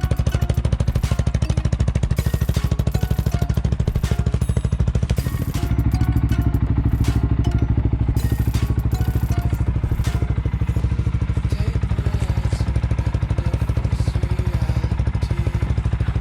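CFMoto 625 ATV's single-cylinder engine idling steadily through an aftermarket RJWC crossflow exhaust, with a fast, even pulse of exhaust beats.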